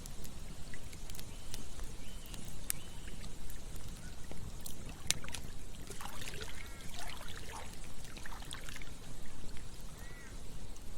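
Campfire crackling with scattered sharp pops over a steady low rush of flowing water. A few short, high calls come in a cluster midway through.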